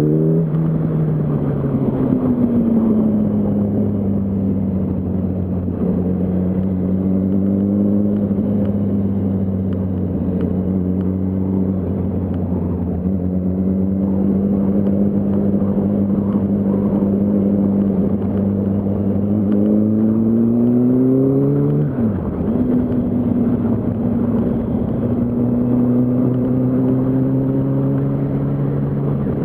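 Yamaha R1's inline-four engine under way: it shifts up right at the start, runs at steady revs, rises in pitch from about 19 seconds in and drops with another upshift about 22 seconds in, then holds steady. A rush of wind noise runs under it.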